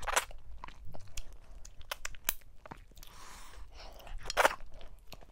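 Close-miked mouth sounds of someone eating soft fufu dipped in slimy okra soup by hand: chewing with many sharp wet clicks and smacks.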